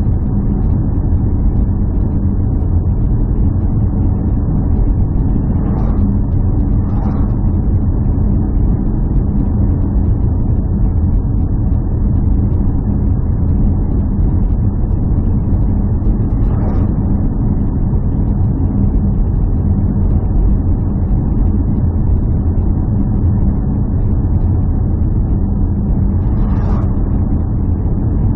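Steady low drone of a running engine, holding one pitch with no revving, with a few faint brief higher sounds over it.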